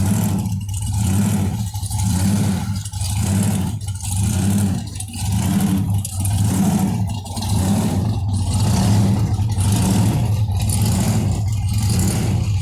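Supercharged engine of a '57 Chevy running at low cruising speed, heard from the car. Its deep rumble swells and falls in a regular pulse about once a second.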